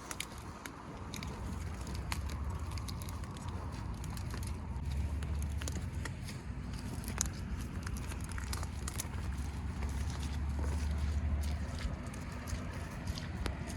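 Wind rumbling on the microphone, swelling twice, with irregular sharp crackles and clicks scattered throughout.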